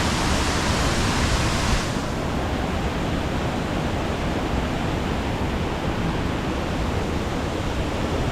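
A waterfall in strong flow, a steady loud rush of falling water. About two seconds in, the hissing top of the sound drops away and the rush goes on duller.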